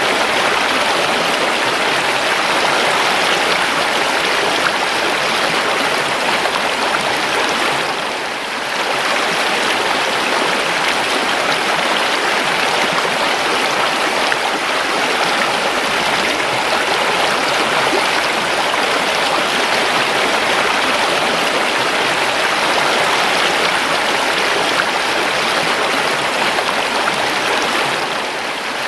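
River water flowing: a steady rushing babble, dipping briefly about eight seconds in and again near the end.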